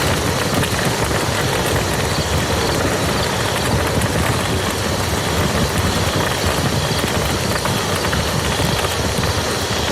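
Steady rain falling onto a muddy field, a dense continuous patter of drops.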